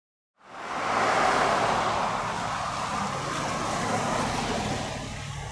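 Diesel locomotives of an approaching train running, a steady low engine hum under an even rushing noise that starts abruptly about half a second in.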